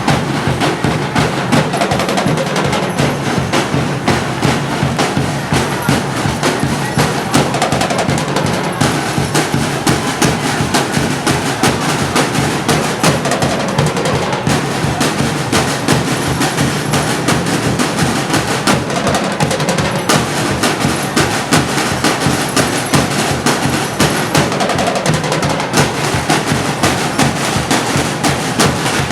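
Drum-led percussion music with a fast, steady beat that does not let up.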